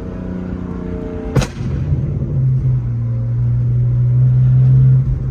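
Turbocharged car engine under way, with a single sharp bang about a second and a half in. The engine then settles into a steady low drone that grows louder.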